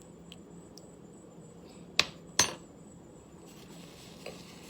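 Metal spoon tapped twice against the rim of a coffee cup after stirring: two sharp clinks about half a second apart, preceded by a couple of faint ticks.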